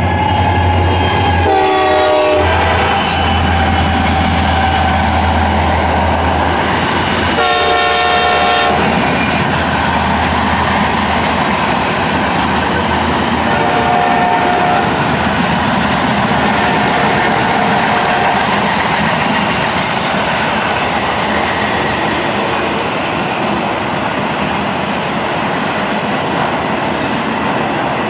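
CSX local freight train passing: the diesel locomotive goes by with a low engine drone and sounds its horn in two short blasts in the first nine seconds. The freight cars then roll past with a steady rumble, wheels clacking over the rail joints.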